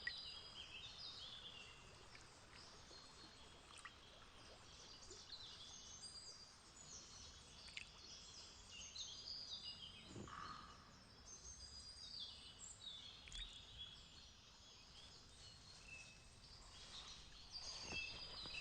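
Faint chorus of small songbirds singing and chirping, with many short high calls throughout over a light hiss, and one brief lower call about ten seconds in.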